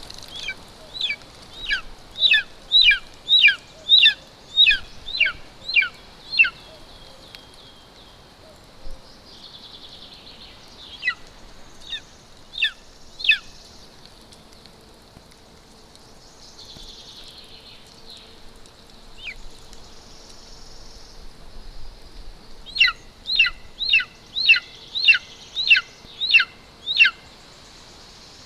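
Golden eagle chick's high, thin begging calls, each a quick downward slur, repeated about twice a second in two long runs with a few scattered calls between them.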